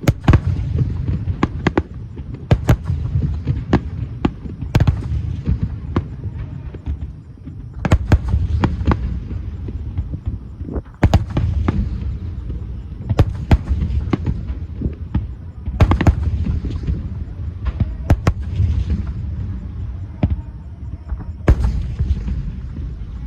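Fireworks display: aerial shells bursting in a rapid, irregular series of sharp bangs, several a second at times, over a continuous low rumble of echoing detonations.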